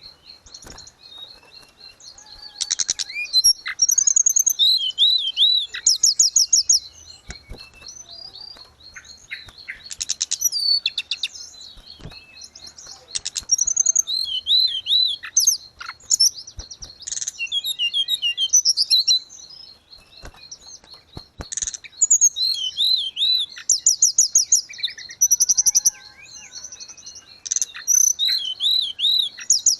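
Tledekan gunung singing: bursts of rapid high chirps, trills and wavering whistled notes, each phrase a second or two long, repeated every few seconds, over a faint steady high tone.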